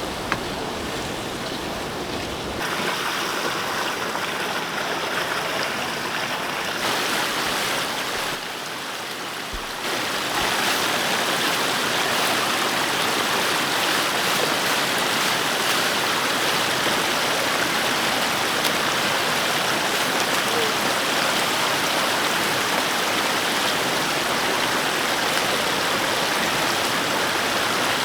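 Steady rush of running water, changing abruptly a few times in the first ten seconds and then running on evenly and a little louder.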